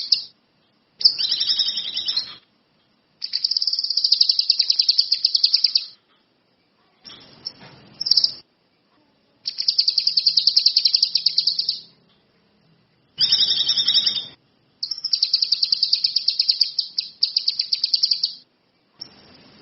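A kinoi songbird singing in repeated phrases of fast, high trills, each lasting one to three seconds with short pauses between; some phrases are harsher and chattering.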